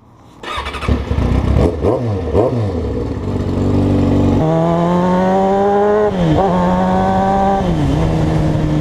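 Motorcycle engine under way: in the first few seconds its pitch swings up and down, then it pulls steadily with the pitch climbing, dropping sharply twice in the second half as it shifts up a gear.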